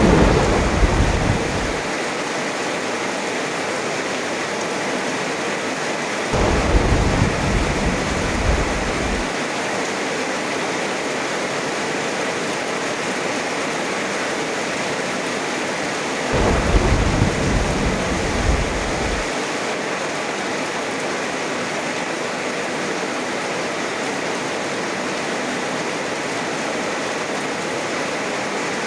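Heavy rain falling steadily, with rolls of thunder: one dying away in the first couple of seconds, then two more, each about three seconds long, starting about six and sixteen seconds in.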